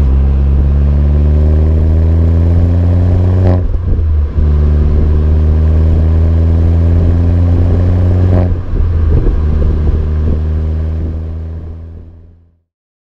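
Opel Corsa OPC's 1.6-litre turbocharged four-cylinder engine accelerating hard through the gears. Its note climbs slowly in each gear, with two upshifts, each a brief break with a crack, about 3.5 s and 8.5 s in. The sound then fades out.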